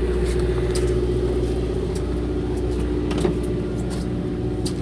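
A fishing boat's engine running steadily as a low, even drone with a constant hum, with a few light clicks over it.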